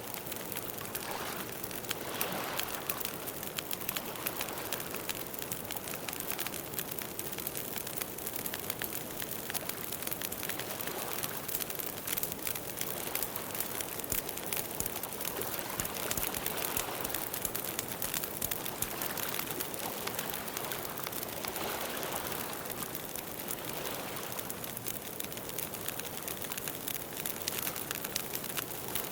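Campfire crackling: a steady hiss of burning wood with a dense run of small pops and snaps.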